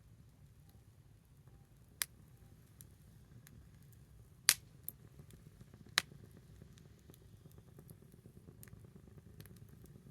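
Small wood fire crackling quietly, with a few sharp pops, the loudest near the middle, and fainter ticks between, over a low steady rumble.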